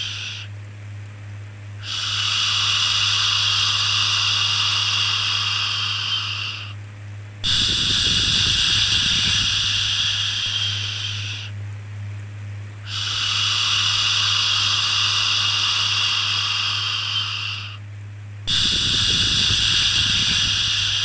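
Shushing 'shhh' sound for soothing a baby: long hushing strokes of about four to five seconds each, separated by short pauses of about a second. A steady low hum runs underneath.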